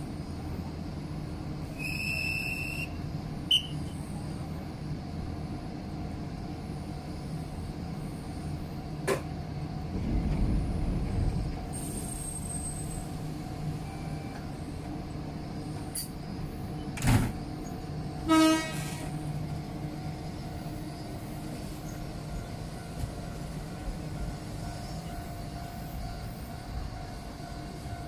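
Chōshi Electric Railway train standing at a station platform, its on-board equipment running with a steady hum. A few sharp clunks are heard, and there is one short, loud horn blast about eighteen seconds in.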